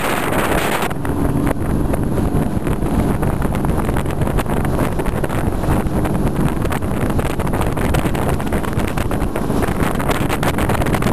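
Speedboat engine running steadily under way, with wind buffeting the microphone. A brief rush of hiss sounds in the first second.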